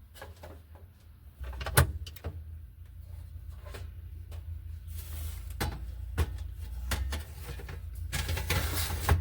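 Kitchen clatter in a small camper-van kitchen: doors and items being handled, with scattered clicks and knocks and a sharp knock about two seconds in. A low steady hum sets in about a second and a half in, and there are two brief hissy rushes in the second half.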